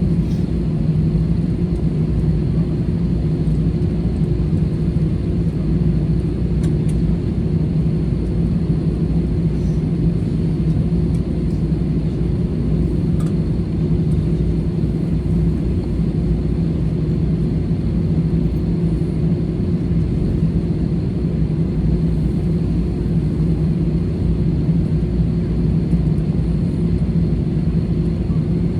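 Steady low rumble of an Airbus A320-214's CFM56 jet engines and airflow, heard inside the passenger cabin, with a constant drone and no change in pitch or level.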